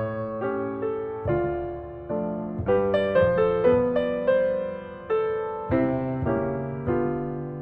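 Gentle background piano music: a slow melody of notes that each strike and fade, over sustained chords.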